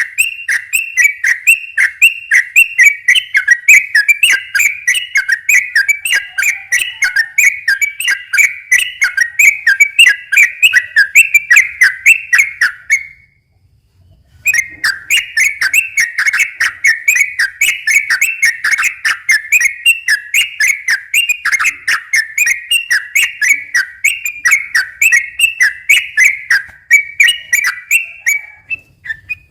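Sooty-headed bulbul (trucukan) singing its rapid, rolling 'ropel' song: a long run of quick whistled notes at about four a second. The run breaks off for about a second and a half near the middle, then resumes.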